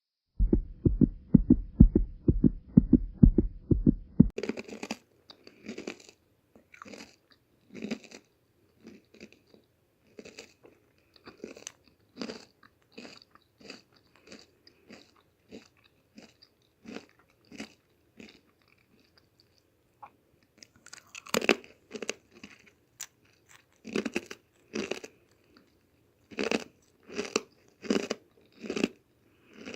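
Close-miked crunchy chewing of whole-wheat protein chip cookies, the crunches coming about once a second and growing louder after fresh bites about two-thirds of the way in and near the end. It opens with a few seconds of a fast run of loud, low thumps.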